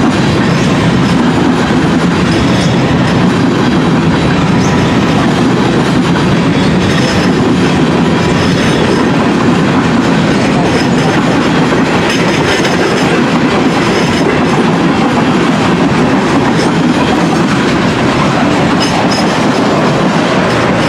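Freight cars of a mixed freight train (hoppers, a lumber car, tank cars) rolling past close by. Their steel wheels make a loud, steady rumble and clatter on the rails.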